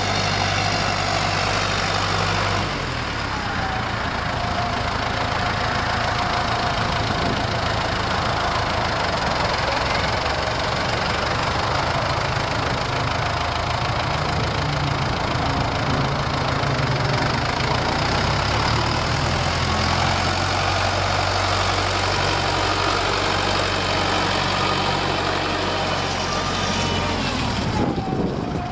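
Ford 6640 Powerstar tractor's diesel engine running steadily with a thin whine over it; the engine note shifts and drops slightly about three seconds in, and changes again near the end.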